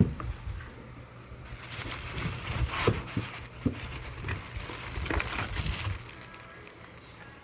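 Packaging being handled and opened, rustling and crinkling with small clicks and knocks, starting with a sharp knock and dying down about six seconds in.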